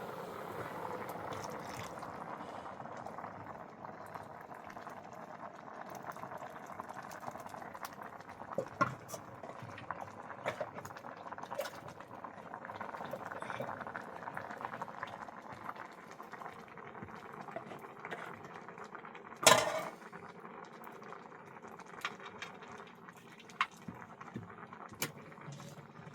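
Liquid bubbling at a steady boil in a pot, with scattered small clicks and one sharp knock about two-thirds of the way through.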